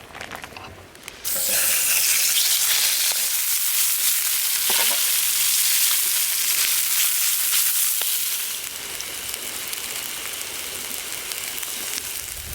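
Food sizzling in hot oil in a pan, starting suddenly about a second in as it goes into the pan, then easing a little later on.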